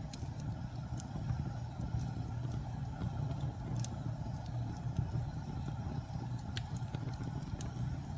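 Fireplace wood fire burning with a steady low rumble of flame, broken by sharp, irregular crackles and pops a few times over the stretch.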